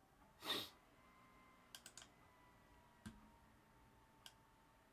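Near silence, with a short soft rush about half a second in and a handful of faint clicks, typical of a computer keyboard.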